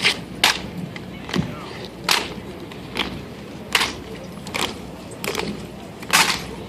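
Sharp slaps and clacks from a silent drill team's M1 Garand rifles and boots, repeating about once every three-quarters of a second.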